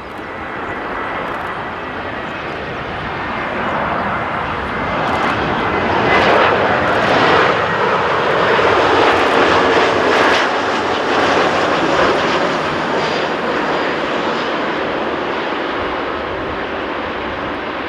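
Airbus A320neo jet airliner on landing approach, its Pratt & Whitney geared turbofan engines making a loud rushing noise that swells as it passes low overhead, peaks about halfway, then slowly fades.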